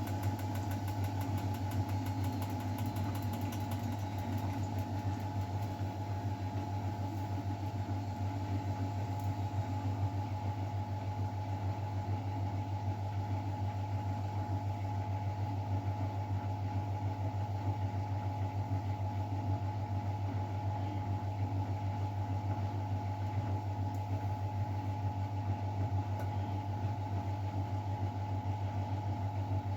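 Miele Novotronic W912 washing machine running with a steady mechanical hum, strongest low down, with a fainter steady whine above it.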